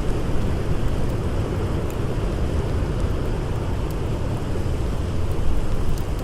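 Steady roar of blizzard wind, strongest in the low rumble, with a few faint crackles of a wood fire.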